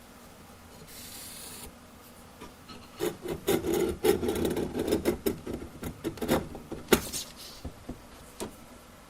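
Irregular scraping and rubbing of material being worked by hand, with sharp knocks mixed in, from about three to seven seconds in; the loudest knock comes near seven seconds.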